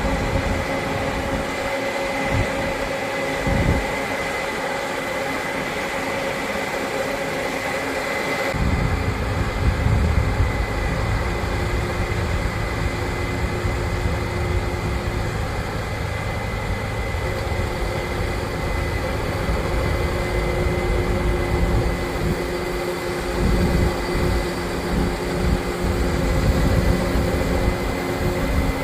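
Harvest machinery running steadily, a mechanical drone carrying several steady tones. About a third of the way in, a deep rumble comes up and one of the tones drops out.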